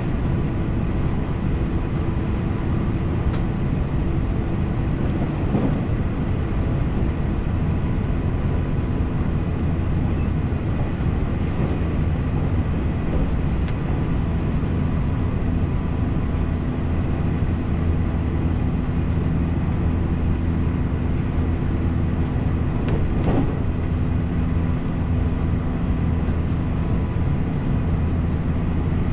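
Running noise of a JR Central 313 series electric train heard from inside the car: a steady rumble of wheels on rail with a faint, steady motor hum.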